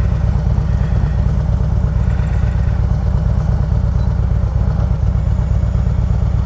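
Harley-Davidson Road Glide's V-twin engine running steadily at low speed, a dense low rumble, heard from the bike with wind noise on the microphone.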